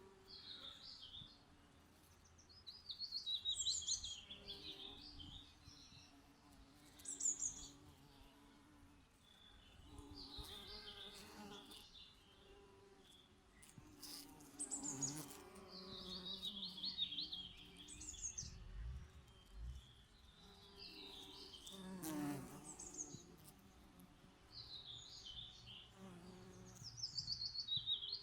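A songbird singing short, quick warbled phrases every few seconds, over the low, wavering hum of bees buzzing close by.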